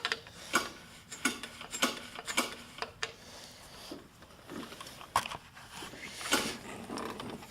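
Irregular sharp clicks and knocks, about one or two a second, from working a stuck push mower that will not turn over; no engine runs.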